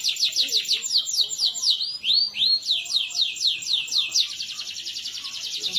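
Domestic canary singing: quick runs of repeated down-slurred whistled notes, several a second, then about four seconds in a very fast, even rolling trill.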